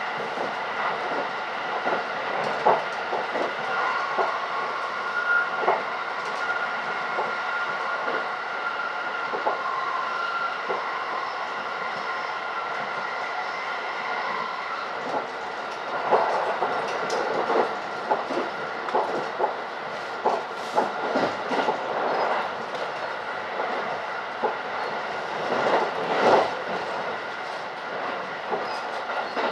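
Electric rapid train running at speed, heard from inside the passenger car: steady running noise with a few held high tones. Irregular clacks of the wheels over rail joints come more often in the second half.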